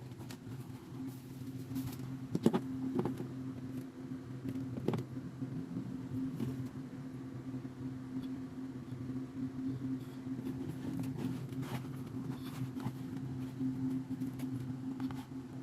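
Small electric motor running with a steady, even-pitched hum, with scattered clicks and knocks, the loudest about two and a half seconds in.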